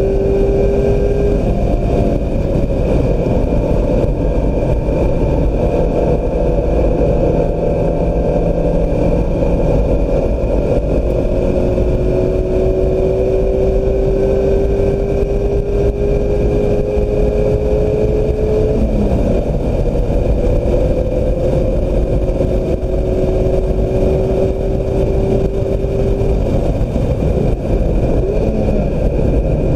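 Mazda MX-5 Miata four-cylinder engine pulling hard at wide open throttle, its pitch climbing slowly for several seconds and then dropping off abruptly, three times, over a constant rumble of wind and tyre noise.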